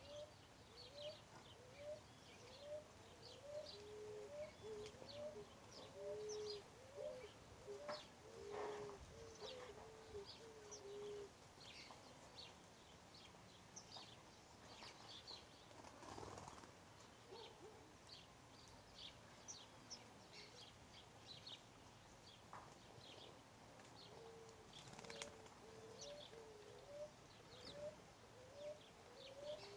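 A dove cooing faintly in a long series of short, low notes, about two a second, that stops about eleven seconds in and starts again near the end, while small birds chirp high and thin throughout.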